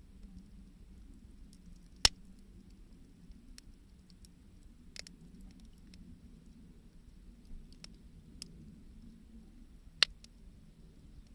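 Wood fire crackling as 2×4 lumber and scrap wood burn. Scattered small pops sit over a low, steady rumble, with two sharp loud cracks, one about two seconds in and one near the end.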